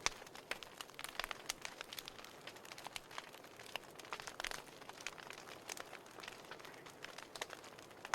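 Burning firewood crackling: irregular sharp pops and snaps, several a second, over a soft steady hiss.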